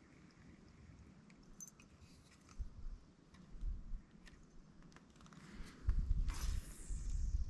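Faint scattered clicking of a spinning fishing reel and tackle being handled, with a few low rumbles. About six seconds in comes a cast: a swish that falls away over about a second, over low rumbling.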